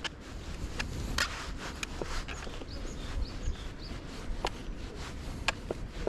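Scattered sharp clicks and knocks, with a few short, faint bird chirps in the middle, over a steady low outdoor rumble.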